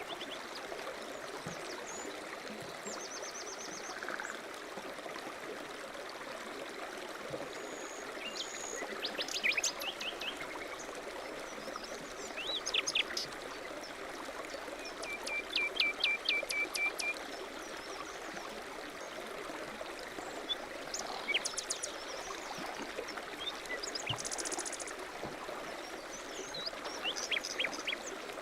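Steady rush of a mountain stream, with small birds chirping and trilling over it now and then in short songs of quick repeated notes.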